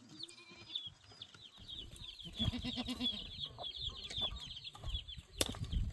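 Chickens clucking amid many short, high chirping calls, with a lower run of clucks about two and a half seconds in. A single sharp knock comes near the end.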